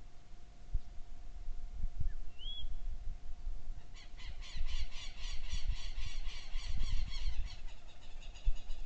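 Birds calling: a single short whistled note, then from about four seconds in a rapid, evenly repeated series of high squawking calls lasting several seconds.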